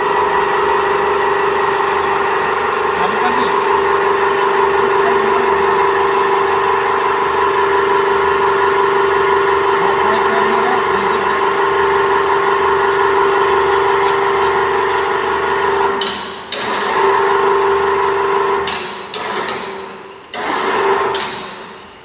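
Forced-air blower of a wood-pellet aluminium melting furnace running with a loud, steady whine, then breaking off and picking up again a few times in the last several seconds before stopping near the end.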